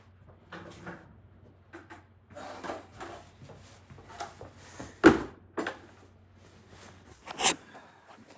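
Knocks, clunks and rustles from a heavy bucket of water being carried and handled, with two sharp loud knocks about five and seven and a half seconds in. A low steady hum stops shortly before the second knock.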